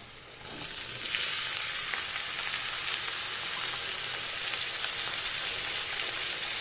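Pressure-cooked chickpeas sizzling as they go into hot oil and browned onions in a kadhai. The sizzle starts suddenly about half a second in and then runs on loud and even.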